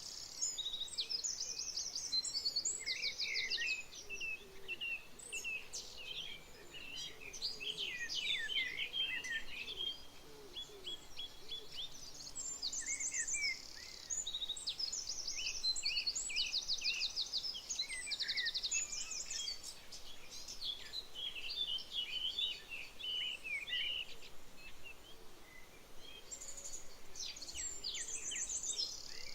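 Several birds singing and calling together: rapid trills and short chirps overlapping continuously.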